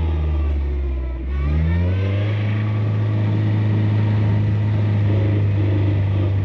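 Car engine under way: the engine note drops in pitch, briefly eases off about a second in as with a gear change, then climbs again and settles into a steady cruising drone.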